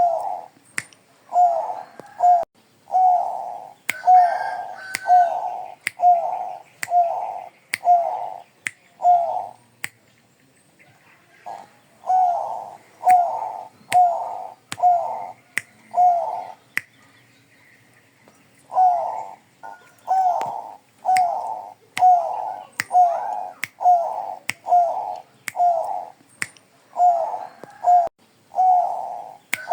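Zebra dove (perkutut bangkok) singing, a long run of short, soft cooing notes about one a second, broken by two pauses of a couple of seconds. Sharp clicks are heard throughout alongside the song.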